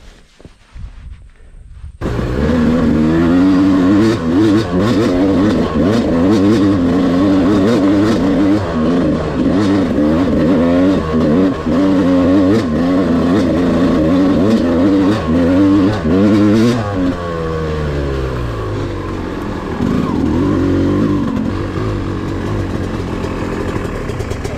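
Yamaha dirt bike engine heard from on board, revving up and down rapidly as it is ridden over rough ground. About two seconds in it starts loud after a quieter opening with a few light knocks; its pitch drops sharply a little past the middle, rises briefly again, then eases off near the end.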